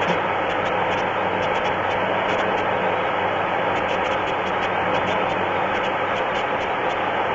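The 3.4L V6 of a 2002 Pontiac Grand Am idling steadily, with a faint light ticking over the running.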